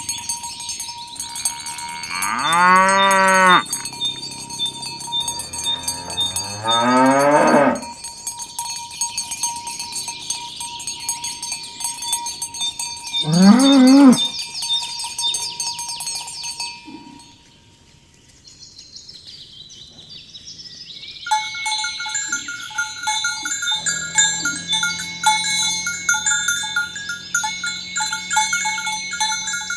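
Cattle mooing: three long moos, the second rising in pitch, over a steady high chirring. Past the middle the sound drops away briefly, then a steady pulsing ringing at a few fixed pitches takes over.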